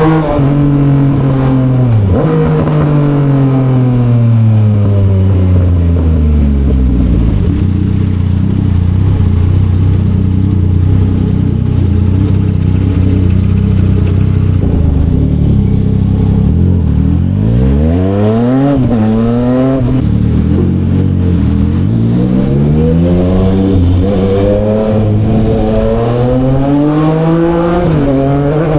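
Yamaha XSR900's three-cylinder engine through an SC Project exhaust while riding: it winds down for the first several seconds and runs steadily at low revs through the middle. About two-thirds through it revs up sharply and drops back, then accelerates with the revs climbing and dipping several times near the end as it shifts up through the gears.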